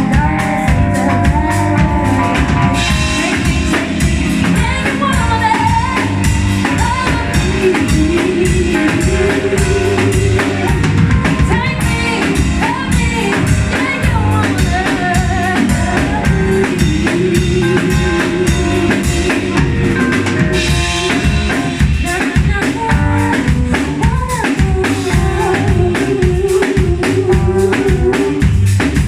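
Live band playing a song: a drum kit keeping a steady beat under bass and guitar, with a voice singing over it.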